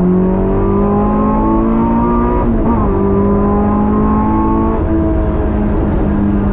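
Honda S2000's Toda Racing-built engine heard from inside the cabin, pulling hard with its note climbing steadily, dropping sharply twice as the driver shifts up, about a third of the way in and again two-thirds in, then climbing again.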